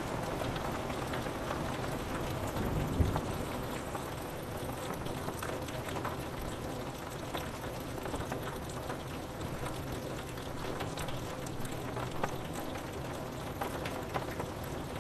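Steady rain on a window pane: an even hiss with scattered ticks of single drops, and one brief low thump about three seconds in.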